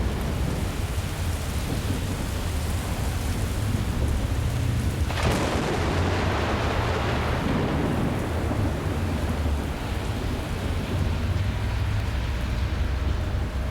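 Thunderstorm: steady rain with a low rumble underneath, and a sudden crack of thunder about five seconds in that rolls on and fades over several seconds.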